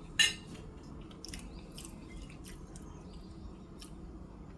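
A person eating fried chicken wings: one sharp click about a quarter second in, then faint wet mouth clicks and chewing.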